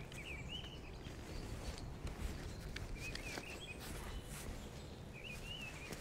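A bird calling in short warbling phrases, three times about every two and a half seconds, over a low wind rumble on the microphone. Light clicks and rustles of camera gear and camouflage netting being handled come in between.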